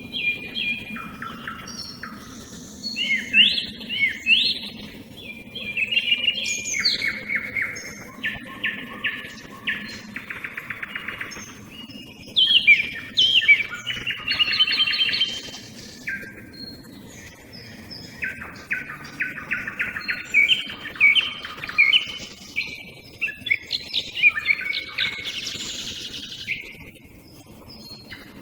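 A song thrush and a nightingale singing in alternating and overlapping phrases, short repeated notes mixed with fast rattling trills, with small birds such as tits calling in the background.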